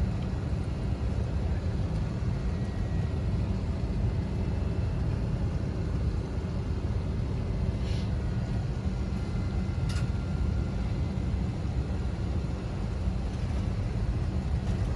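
Steady low rumble of airliner cabin noise, the engines running while the plane is on the ground before takeoff. Two short clicks sound about eight and ten seconds in.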